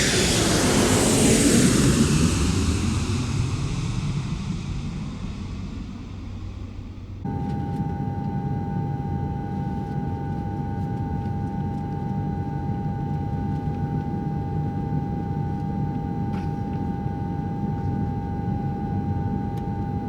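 Jet airliner engines: a loud whine that falls in pitch and fades over about seven seconds, then, after an abrupt change, a steady engine drone with a constant hum.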